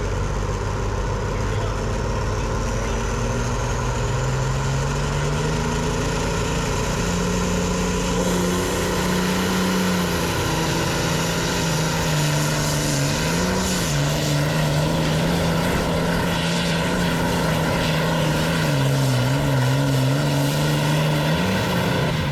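Pulling vehicle's engine at full throttle, dragging the weight-transfer sled down the track. Its pitch climbs over the first several seconds, then wavers up and down as the driver works the throttle, and drops away near the end as it shuts down.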